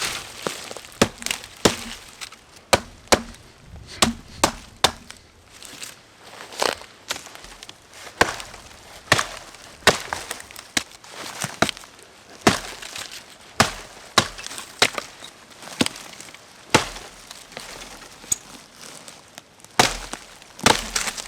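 Dry dead branches being broken up for firewood: a long series of sharp wooden cracks and snaps at irregular intervals, roughly one a second.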